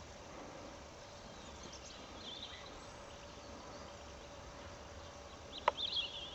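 Faint open-air hiss with a few brief, high bird chirps about two seconds in and again near the end, and a single sharp click near the end.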